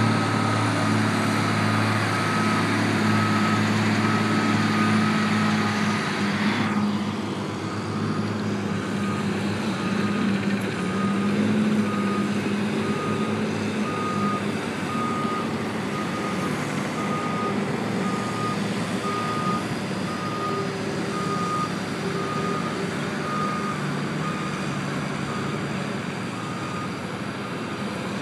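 Backup alarm on a heavy vehicle beeping about once a second as it reverses, over its engine running, which is louder for the first several seconds and then drops back.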